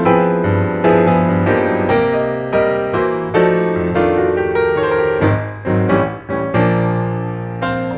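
Background piano music: chords struck about once or twice a second, each ringing and fading, with a final chord left ringing near the end.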